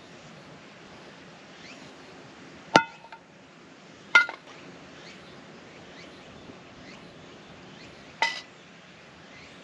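Three sharp clinks of hard objects knocking together, each with a short ring: one about three seconds in, another a second and a half later, and a third about four seconds after that.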